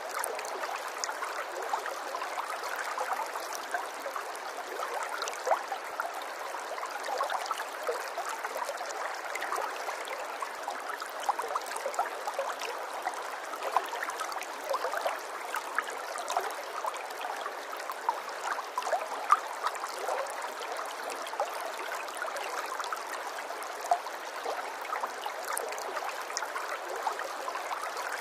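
Flowing water trickling and splashing steadily, with many small sharp droplet ticks over an even rush.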